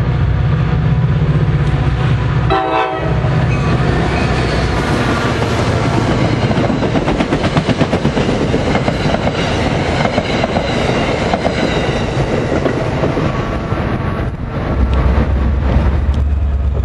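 A New Jersey Transit train led by an EMD GP40PH-2B diesel locomotive approaches and passes at speed: one short horn blast about three seconds in, then the rush and rapid clickety-clack of the cars going by. Near the end it gives way to the steady low drone of another approaching diesel locomotive.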